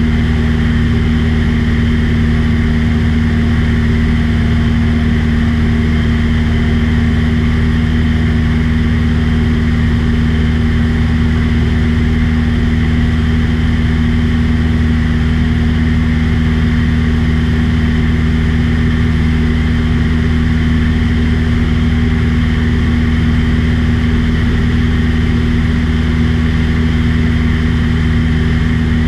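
Small aircraft's engine and propeller droning steadily at constant power, heard loud from inside the cabin.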